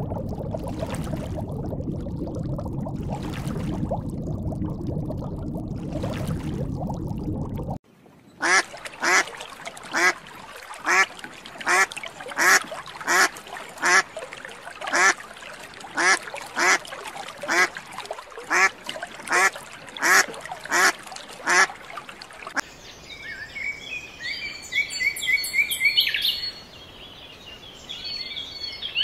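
A run of animal calls: first a dense, low rumbling noise, then after about eight seconds a long series of short, pitched calls at about two a second, then higher-pitched calls near the end.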